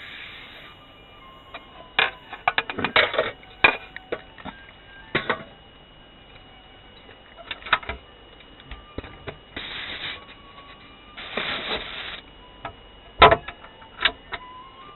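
Things being handled at close range: scattered clicks and knocks, with two short stretches of rustling or rubbing near the middle. A faint steady high whine runs underneath.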